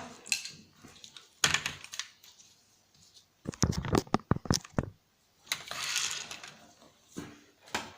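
Small hard salvaged electronic parts being handled during a teardown: a few sharp clicks, then a quick clattering run of clicks about halfway through, with a brief rustle afterwards.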